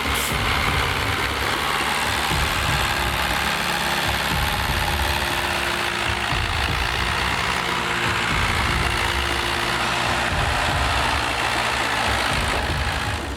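A heavy machine's engine running steadily, with a dense mechanical noise over a low rumble.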